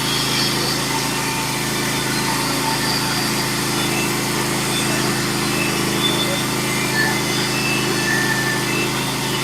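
Norwood HD36v2 bandsaw mill's engine running steadily under load as its band blade saws through a pitch pine cant. The blade is a Stella Cut band resharpened to 7 degrees, and it is cutting cleanly.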